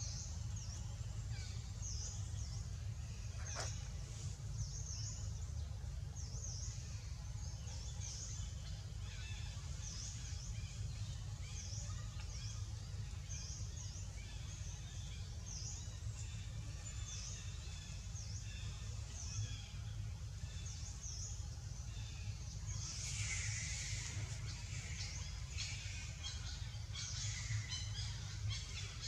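Outdoor ambience: a bird repeating a short, high chirp about once a second over a steady low rumble, with a denser burst of high chattering calls about three-quarters of the way through.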